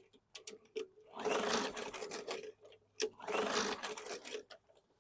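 Briggs & Stratton 450E push-mower engine cranked twice on its recoil pull-starter, each pull whirring for about a second and a half without the engine firing. It will not start because the tight safety brake cable keeps the kill linkage on its ground tab.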